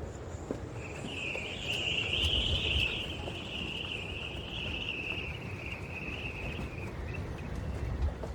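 An insect's continuous high trill that starts about a second in and fades out near the end, over a low rumble.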